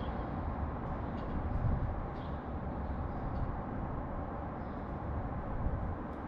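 Steady low rumble of city traffic with a few faint, short high chirps from small birds.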